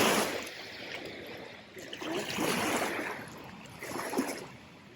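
Water washing and splashing, rising and falling in swells.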